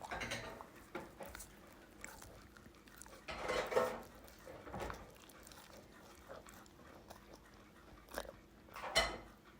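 A large husky biting and chewing a sweet potato in separate chomps. The loudest bites come about three and a half seconds in and again near the end.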